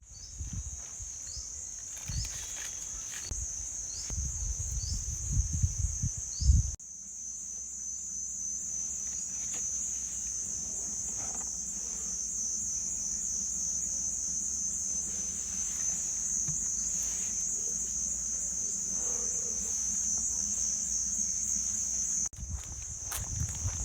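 Insects chirring in a steady high-pitched drone that breaks off abruptly twice, about seven and twenty-two seconds in. Low rumbling knocks sit under it for the first seven seconds.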